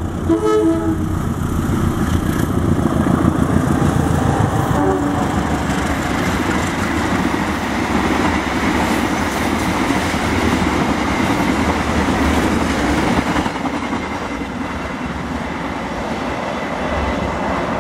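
Two CC 201 diesel-electric locomotives running double-headed pass at speed, loudest in the first second with a brief pitched tone. Then comes a long steady clatter of the passenger carriages' wheels over the rails, which eases slightly after about 13 seconds as the train draws away.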